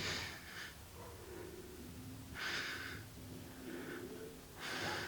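A person breathing close to the microphone: three short, noisy breaths about two seconds apart, with a faint steady hum underneath.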